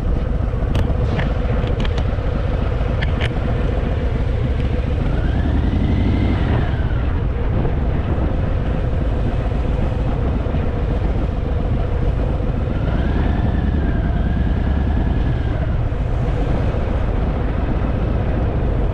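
Harley-Davidson Fat Boy V-twin motorcycle engine running steadily while being ridden, with a few sharp clicks in the first few seconds and a high tone that rises and falls twice over the rumble.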